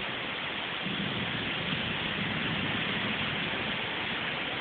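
Torrential tropical downpour: the steady hiss of heavy rain.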